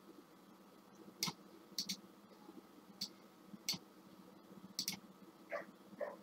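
Computer mouse clicking: a handful of short, sharp clicks at irregular intervals, some in quick pairs.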